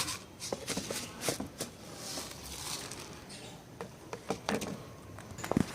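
Scattered light clicks, taps and rustling at irregular moments, with a few sharper clicks near the end.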